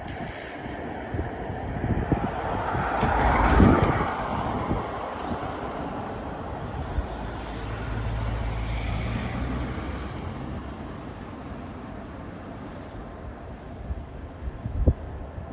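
A passing vehicle: a rushing noise swells to its loudest about four seconds in and fades away. A low, steady engine drone follows from about seven to ten seconds. Wind buffets the microphone at the start and again near the end.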